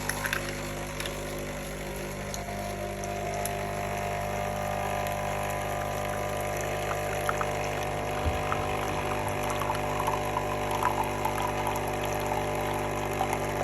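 Nescafé Dolce Gusto Mini Me capsule coffee machine brewing. Its pump hums steadily and noisily, forcing hot water through the capsule while coffee runs into the cup, with a tone that rises in pitch over the middle seconds as the cup fills.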